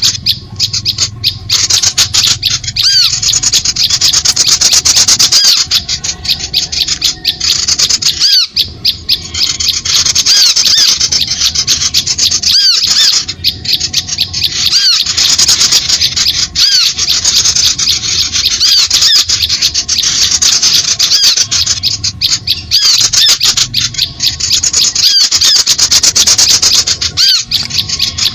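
Dense, rapid chattering and squeaky chirping of small birds, played as a bird-lure (pikat) call to draw birds to lime sticks; the busy pattern repeats every couple of seconds.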